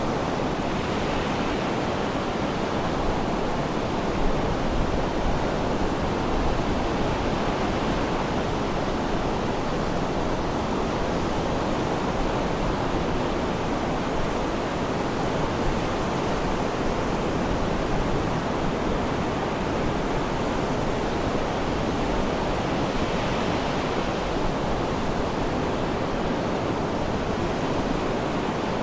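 Sea surf: waves washing in as a steady, even rush with gentle swells in loudness.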